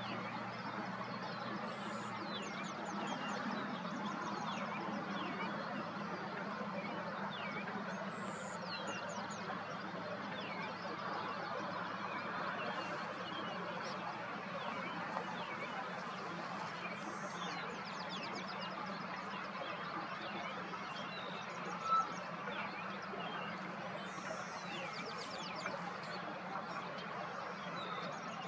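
Wild birds singing and chirping outdoors over a steady low hum. Several times a high note is followed by a quick run of notes, and there is one short, louder note about three-quarters of the way through.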